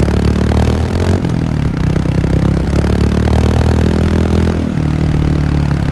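Royal Enfield Hunter 350's single-cylinder engine running through its exhaust, a low, rough, steady note that shifts in engine speed a few times.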